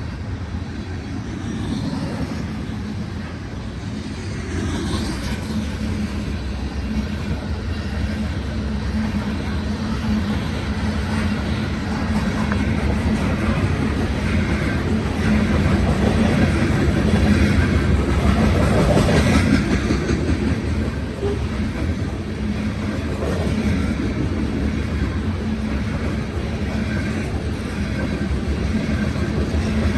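Loaded coal hopper cars of a long unit coal train rolling past, a steady heavy rumble of wheels on rail that swells about halfway through.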